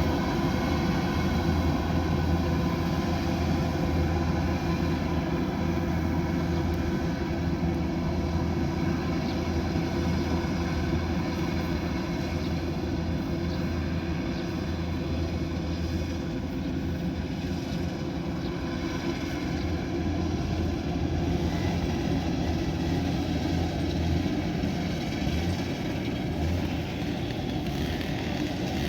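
Kubota DC108X combine harvester running steadily: a continuous low engine drone with a steady mechanical hum over it, holding even throughout.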